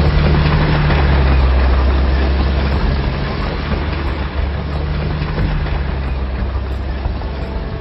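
A large engine running loudly: a dense rushing noise over a deep steady hum that eases a little after about three seconds.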